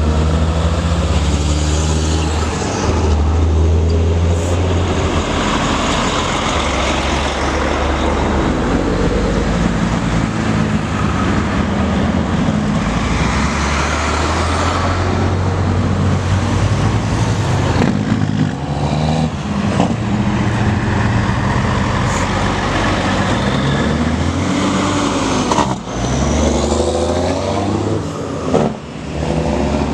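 Diesel trucks in a convoy running on the road, a loud steady engine drone whose pitch shifts as the engines change speed.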